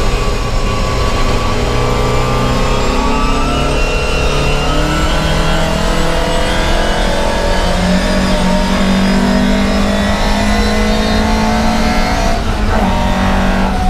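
Volvo 544 racing car's engine heard from inside the cabin, running hard under load, its pitch easing and then climbing slowly. About twelve and a half seconds in there is a brief break as a gear is changed.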